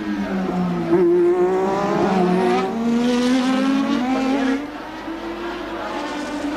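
1988 Formula One car engines at racing speed, the engine notes rising and falling with throttle and gear changes. The sound gets louder about a second in and drops back a little before five seconds.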